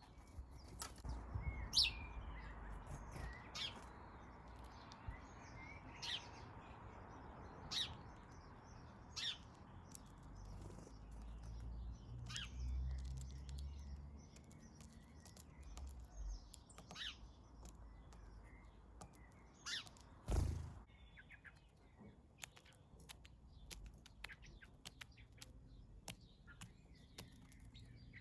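Small garden birds chirping in short, scattered calls over a low background rumble that fades out about halfway, with a single thump about two-thirds of the way in.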